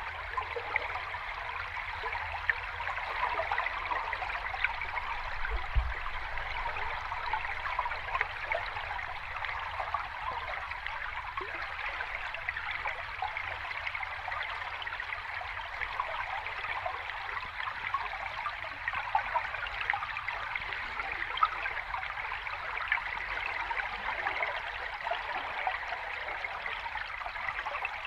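Running water of a small stream or cascade, splashing and trickling steadily with a fine, busy babble and little deep rumble.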